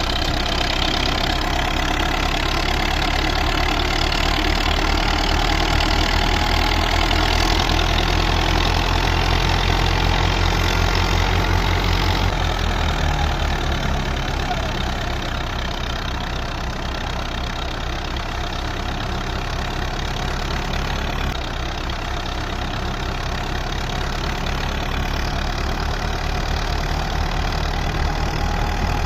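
Belarus 510 tractor's diesel engine running steadily under load, driving a wheat thresher: an even engine beat under the thresher's dense, continuous mechanical rattle and hum.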